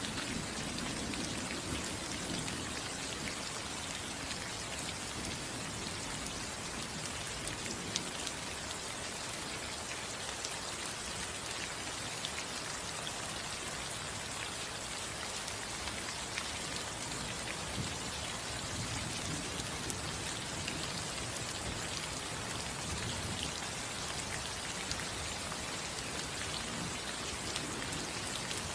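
Steady rain falling on a house roof, with individual drops ticking sharply now and then. A faint low rumble, like distant thunder, shows near the start and again past the middle.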